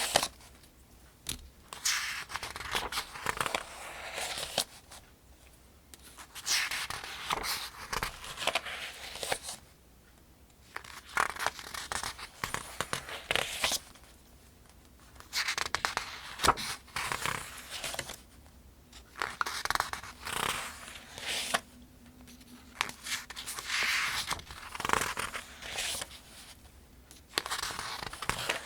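Pages of a paperback almanac being turned one after another: paper rustling and swishing in repeated bursts every few seconds, with short quieter pauses between turns.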